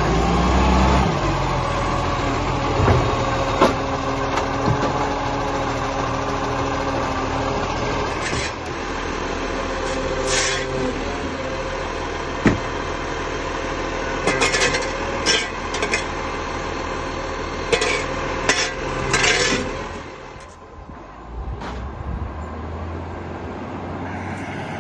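Garbage truck running with a steady whine, broken in the second half by a string of short, sharp clattering noises, then easing off briefly.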